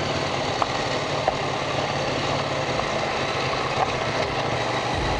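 KTM 790 Duke's parallel-twin engine running steadily while riding, under a constant rush of wind and road noise. A couple of faint ticks come through, and a deeper low rumble comes in near the end.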